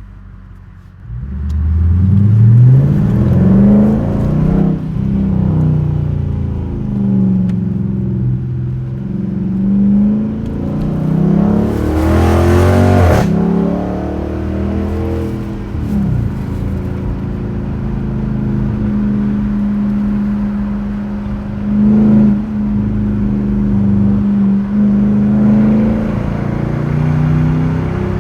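Straight-piped 2021 Dodge Durango RT's 5.7-litre Hemi V8 accelerating hard from about a second in, its exhaust note climbing and dropping back at each of several upshifts, then settling into a steadier drone. About twelve seconds in there is a brief loud rush of noise.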